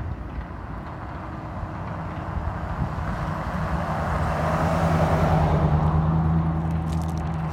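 Mini bike's small engine running steadily, growing louder to its peak about five seconds in and then easing off slightly.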